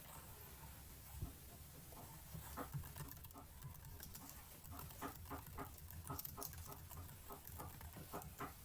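Computer keyboard keys tapped softly: a few scattered clicks, then a quicker run of light taps at about three or four a second from about halfway in.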